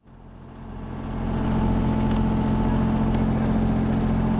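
A boat's engine running steadily at a constant pitch, with the rush of water and wind under it; the sound fades in over the first second or so.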